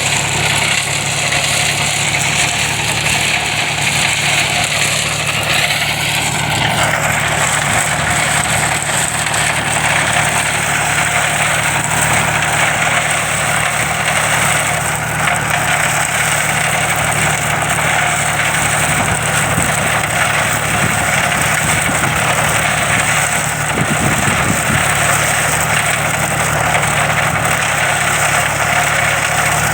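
John Deere tractor's diesel engine running steadily with a cotton shredder attached. The upper, hissing part of the noise changes character abruptly about seven seconds in.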